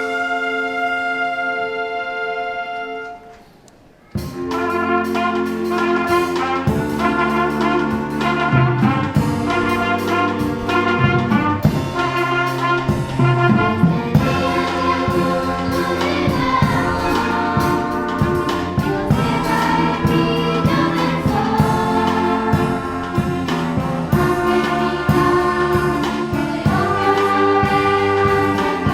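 Live ensemble music led by brass. A held chord dies away about three seconds in, and after a short pause a new passage starts with brass over a steady low bass.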